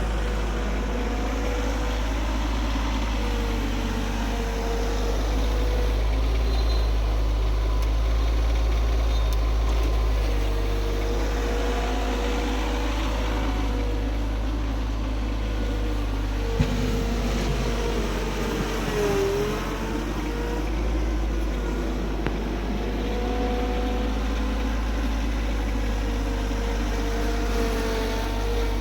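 Tractor engine running steadily, with a whine near the middle of the range that rises and falls slightly in pitch and dips briefly about two-thirds of the way through. A single sharp click is heard partway through.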